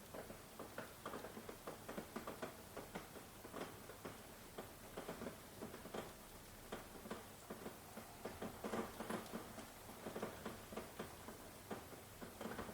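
Rain pattering, with many separate drops tapping at an irregular pace.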